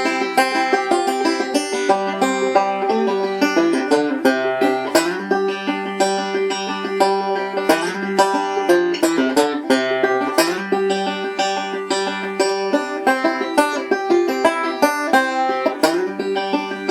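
Five-string banjo with a thin goatskin head (tensioned to 90 on a Drum Dial), played three-finger style in a continuous stream of quick picked notes.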